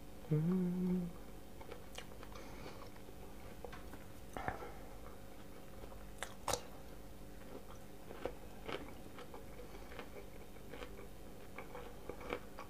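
A person eating close to the microphone, with quiet chewing and scattered sharp crunches. The loudest crunch comes about six and a half seconds in, as a bite is taken from a pickled cucumber. A short hummed "mm" comes just after the start.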